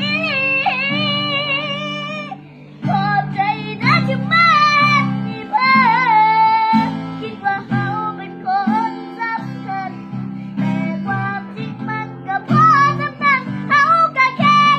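A high voice singing a melody with long, wavering held notes over plucked acoustic guitar chords.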